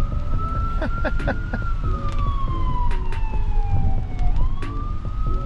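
Emergency vehicle siren wailing, its pitch falling slowly over several seconds and then sweeping back up about four seconds in. A steady low rumble of road and rain noise runs underneath.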